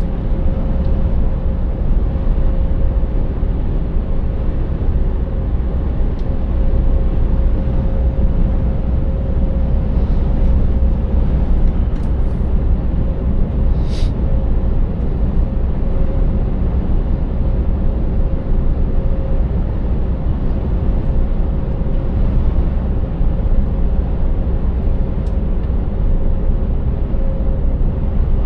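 Scania 590S V8 truck driving steadily: an even low rumble of the 16-litre V8 diesel and road noise, with a steady hum throughout. A single sharp click about halfway through.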